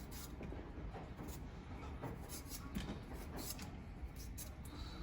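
Kitchen knife shaving thin pieces off a radish held in the hand, pencil-sharpening style: an irregular series of short, crisp scraping strokes.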